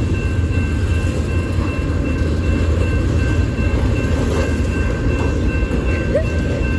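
Freight train rolling past, a steady loud rumble of its cars on the rails, with a faint steady high whine over it.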